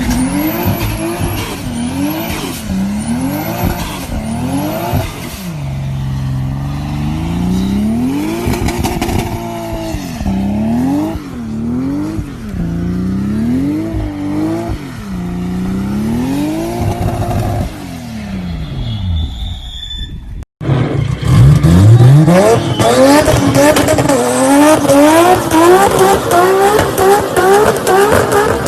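Toyota Supra straight-six engine revved up and down over and over, with a thin high whistle in the first few seconds. After a short break about 20 seconds in, a loud engine accelerates hard, its pitch rising again and again in quick steps through the gears.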